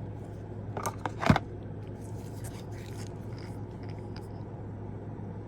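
Small items and packaging being handled: a sharp click about a second and a quarter in, with lighter taps and rustles around it, over a steady low hum.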